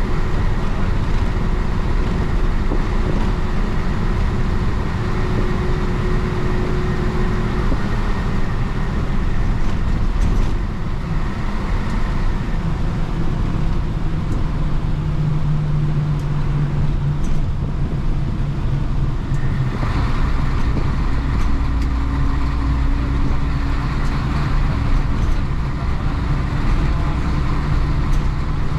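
Isuzu BXD30 bonnet bus's DA640 diesel engine running as the bus drives. The engine note changes about ten seconds in and again about twenty seconds in, settling each time on a new steady pitch.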